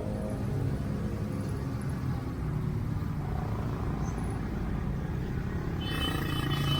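Street traffic: motor vehicles running nearby with a steady low rumble. About six seconds in comes a brief hissing squeal, like a vehicle's brakes.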